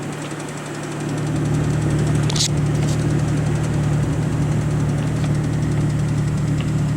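A Jeep's engine under load, towing a stuck car out of snow by a strap. It swells about a second in, then holds a steady drone.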